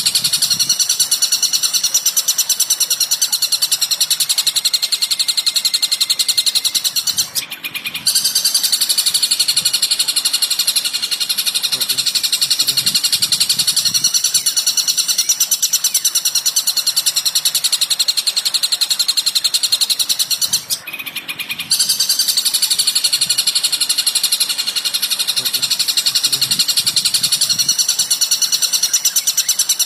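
Recorded songbird call: a dense, high-pitched, very rapid chirping chatter that breaks off briefly twice.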